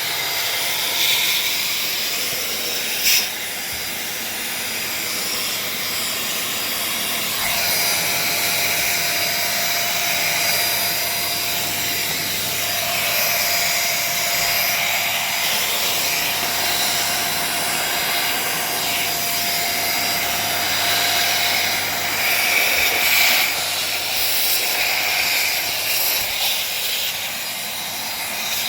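Agaro Regal 800-watt handheld vacuum cleaner running steadily with a nozzle attached, its motor and rushing airflow shifting as it sucks up dust and cobwebs. A sharp click sounds about three seconds in, and a thin steady whistle runs through the middle.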